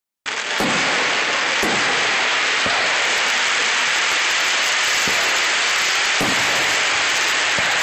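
Fireworks display: a loud steady hiss and crackle, with a few faint dull thumps scattered through it.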